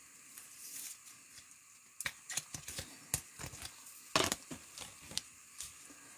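Faint rustling and light clicks of trading cards and their foil pack wrappers being handled, with one louder rustle about four seconds in.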